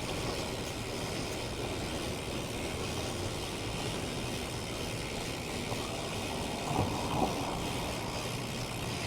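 Steady street and traffic noise. A faint voice is heard briefly about seven seconds in.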